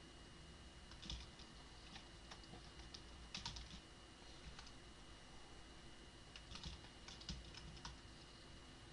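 Faint typing on a computer keyboard, a few keystrokes at a time in short bursts with pauses between, as text is entered into a form field.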